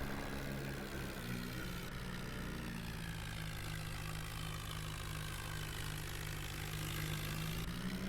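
New Holland tractor's diesel engine running steadily under load while pulling a fully loaded trolley; the engine note rises a little near the end.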